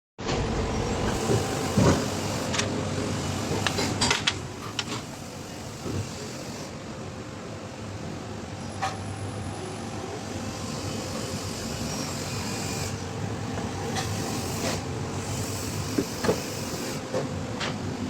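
Steady mechanical hum and background noise with scattered sharp clicks and knocks, typical of hand-tool work on a car's engine bay.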